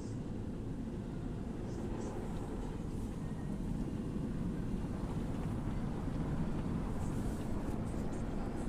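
Automatic car wash heard from inside the car's cabin: a steady low rumble of the wash machinery and water on the car body, growing a little louder about four seconds in.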